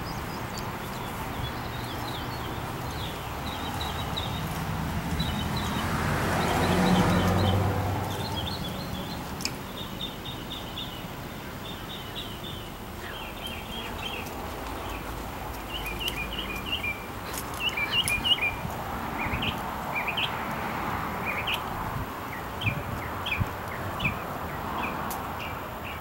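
Small birds chirping in short, high calls repeated again and again over a steady outdoor background. About seven seconds in, a rush of noise with a low hum swells up and fades away.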